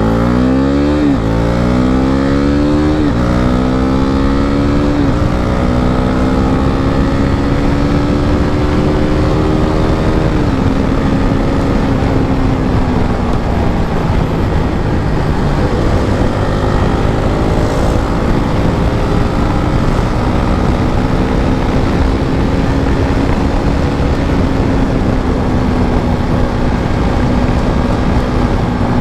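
KTM RC 390's single-cylinder engine accelerating hard through the gears. Its pitch climbs and drops back at each upshift, about one, three, five and ten seconds in, then holds a steady high note that rises and falls slightly. Wind noise rushes over the microphone throughout.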